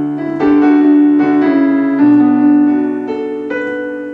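Piano accompaniment playing sustained chords between sung lines, a new chord struck every second or so.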